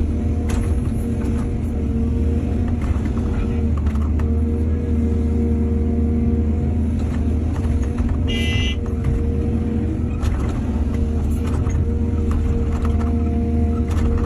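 Excavator's diesel engine running steadily, a constant low drone with scattered knocks and clanks over it. A brief shrill tone sounds about eight seconds in.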